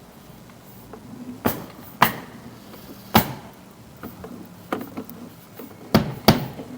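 About six sharp knocks at irregular intervals, each dying away quickly, over a faint low steady hum.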